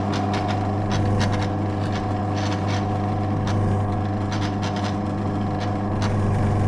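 Drill press motor running with a steady hum while a spot weld drill bit cuts into a steel bracket, with irregular scraping and chatter from the cut.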